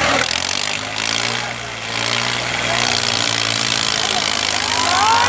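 Mahindra 575 tractor's diesel engine running steadily, its low hum dipping briefly in level about a second in.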